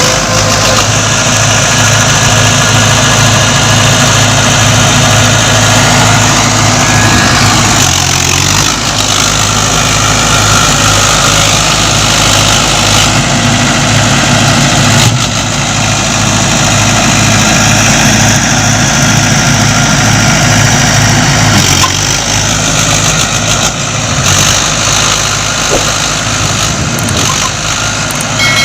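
Mahindra Arjun 555 DI tractor's diesel engine running with a steady low throb, its note shifting a couple of times.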